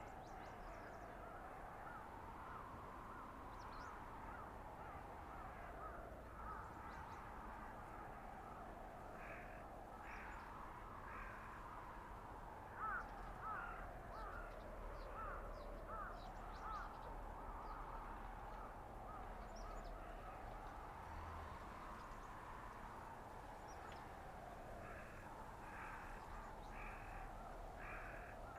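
Winter forest blizzard ambience: wind howling in a tone that slowly rises and falls every few seconds. A bird calls in several runs of short, repeated caws over it, around the middle and again near the end.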